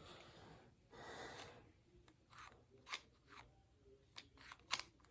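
Faint handling noises from toy parts being worked by hand: a soft rustle about a second in, then a few light clicks.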